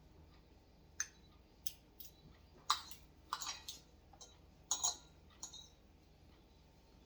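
Spoons and utensils clinking against bowls and plates while eating: about eight short, sharp clinks at irregular intervals, a couple of them with a brief ring.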